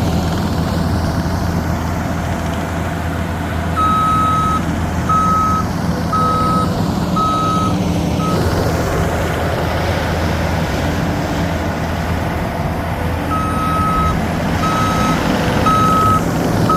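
New Holland C232 compact track loader's diesel engine running steadily while it reverses, its backup alarm beeping about once a second in two runs: from about four seconds in and again near the end.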